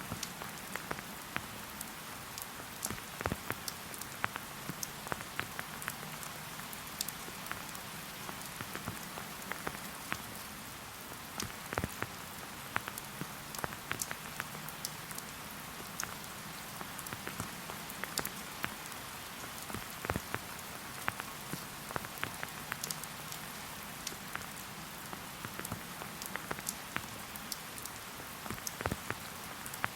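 Steady rain falling, an even hiss with many separate drops ticking sharply at irregular moments.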